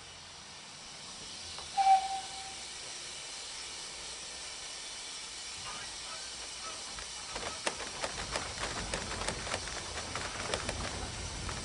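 Passenger train rolling slowly on a preserved industrial line, heard from the carriage: a steady hiss, a brief high squeal about two seconds in, then from about halfway a rapid irregular clicking and clatter of wheels over the track with a low rumble building.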